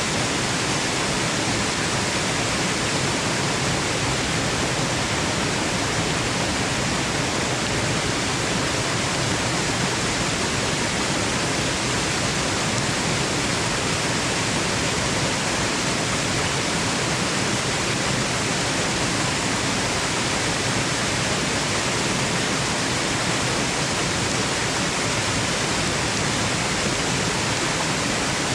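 Waterfall noise: a dense, unbroken rush of falling water, steady in level with no changes, used as white noise for sleep.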